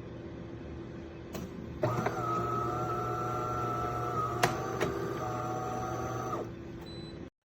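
De'Longhi Dinamica Plus espresso machine running: a low steady hum, then about two seconds in a louder steady motor whine with a few sharp clicks starts, runs for roughly four and a half seconds and stops.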